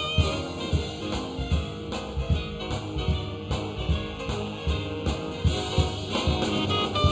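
Big band jazz ensemble playing a swing tune, with a steady drum-kit beat under the band.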